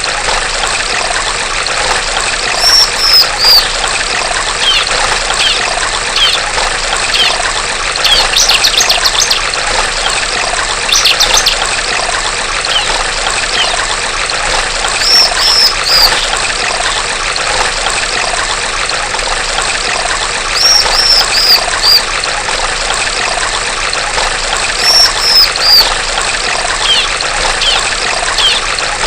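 Female bar-winged prinia (ciblek) calling: short groups of three or four high, falling notes recurring every few seconds, a couple of rapid chattering bursts, and scattered chirps. Under it runs the steady trickle of flowing water.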